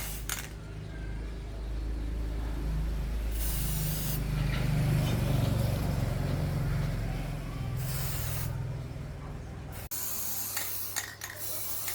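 Bursts of hissing spray over a steady low motor hum; the hum cuts off suddenly near the end.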